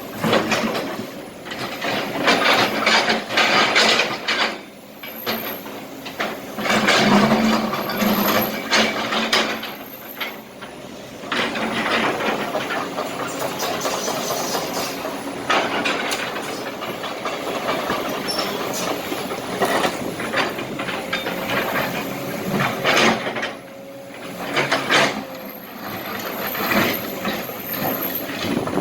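Kobelco SK200 excavator's diesel engine running under load, with several loud stretches of scraping, clattering and rattling as the bucket digs and dumps broken asphalt and small rocks.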